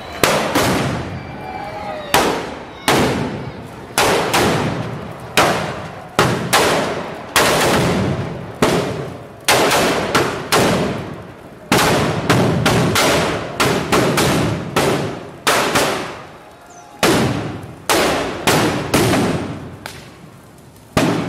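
Fireworks going off inside a burning New Year's effigy: a long irregular run of loud bangs, about one a second, sometimes two close together, each followed by a short echo.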